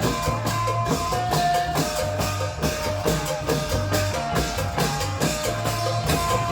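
Isan klong yao long-drum band music: a steady drum rhythm under a plucked-string melody and a repeating bass line.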